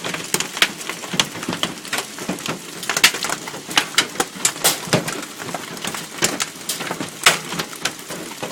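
Hail and rain falling, with scattered sharp ticks and knocks of hailstones striking hard surfaces at irregular intervals as the hailstorm eases.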